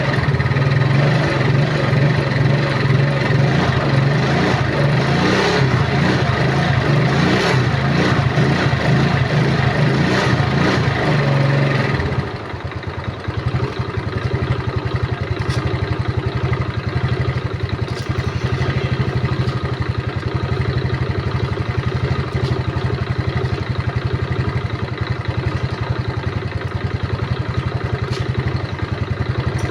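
An engine running steadily with an even firing pulse. About twelve seconds in it drops to a quieter, lower running, with less of the higher noise, and keeps going.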